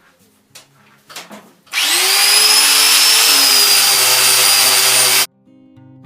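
A handheld electric power tool starts with a whine that rises as the motor spins up, then runs loud and steady, working the rust off a metal work surface, and cuts off suddenly. A few light knocks of handling come before it.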